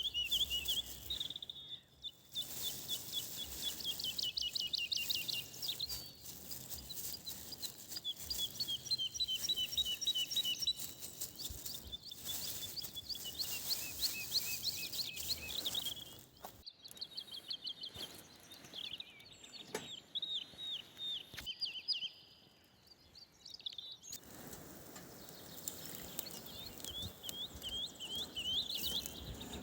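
Small songbirds singing in rapid trills of short, high chirps, over a steady high hiss.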